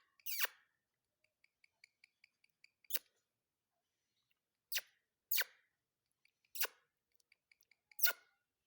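Ringneck parakeet making six short, sharp sounds spaced about a second or more apart, with a run of faint quick ticks between the first two.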